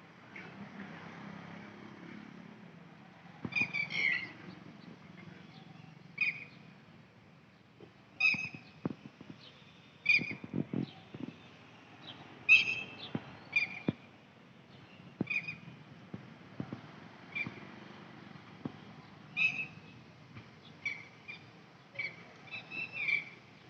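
Short, high bird chirps, one every second or two and sometimes two in quick succession, over a faint low background rumble.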